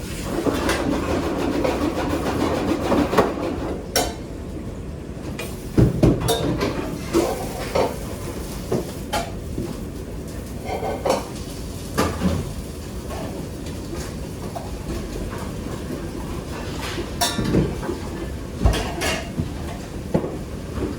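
Kitchen clatter: cookware and utensils knocking and clinking at irregular intervals over a steady low rumble.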